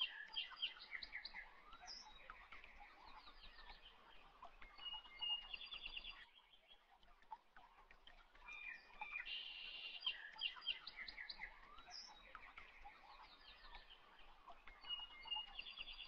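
Faint birdsong: chirps and short trills. The same stretch of song repeats about ten seconds later, like a looped recording.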